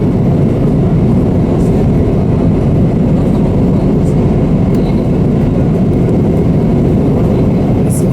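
Steady low roar of airliner cabin noise in flight, engine and airflow rumble holding level, with a few faint high clicks.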